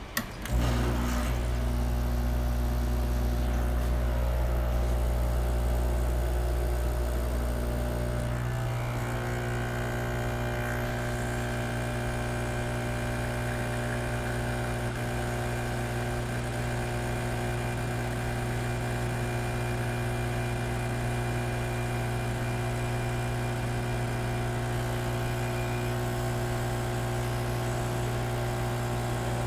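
Vibiemme espresso machine's pump humming steadily while pulling a shot of espresso, after a brief click as the brew is started. About eight seconds in, its note shifts slightly and it settles into a steady drone for the rest of the extraction.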